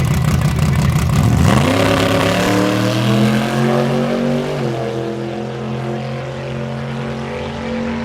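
A race vehicle's engine at full throttle on a drag strip. It begins as a loud, pulsing rumble, then becomes a rising engine note that levels off, steps down in pitch about four and a half seconds in, and carries on, fading slightly.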